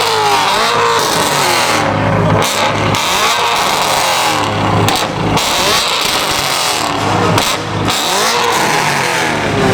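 A car engine is revved again and again, its pitch rising and falling in a new sweep about every second or so.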